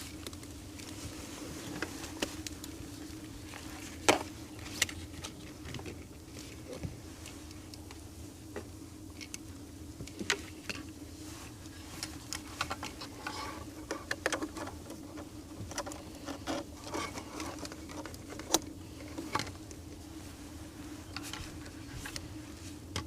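Scattered clicks and taps of handling a 12-volt light string and its cord and clips, over a steady low buzzing hum.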